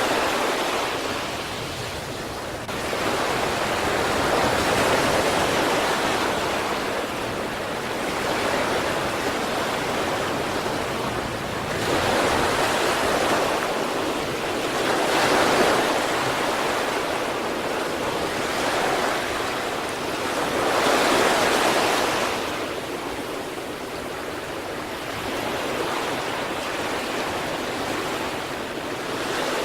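Sea waves breaking and washing onto the shore, a steady surf noise that swells with each wave, about six surges in the half minute.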